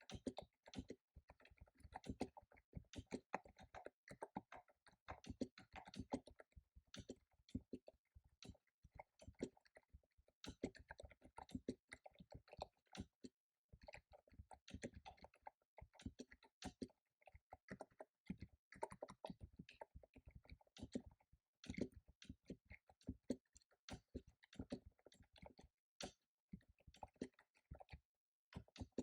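Computer keyboard being typed on, runs of quick key clicks with brief pauses between bursts.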